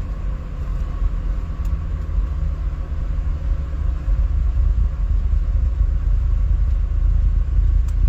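Car on the move: a steady low road-and-engine rumble that gets a little louder about four seconds in.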